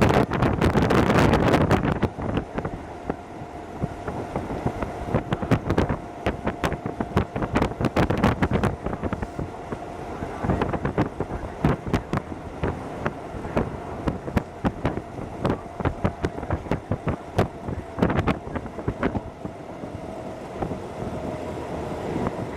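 Hokuso Railway 7260 series electric train running, heard from inside the car: a steady rumble of running noise with many sharp, irregular clicks of the wheels over rail joints. The running noise is louder for the first couple of seconds, and a faint steady tone sounds through the middle.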